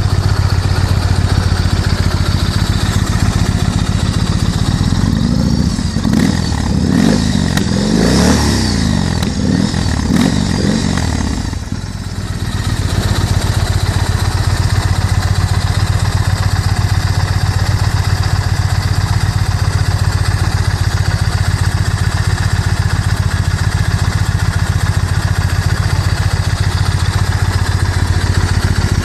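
Yamaha MT-01's big air-cooled V-twin idling through a converted exhaust, with a steady, loping pulse. It is revved up and down a few times between about five and twelve seconds in, then settles back to idle.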